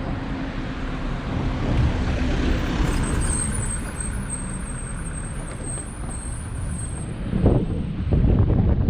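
Street traffic heard while riding an e-bike: a steady low rumble of road noise and passing vehicles. A faint high-pitched pulsing tone runs from about three seconds in until shortly before the end, and a louder rush swells near the end.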